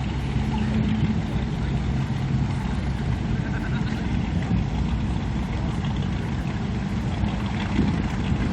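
An engine idling steadily at a boat ramp, a low even rumble with no change in speed.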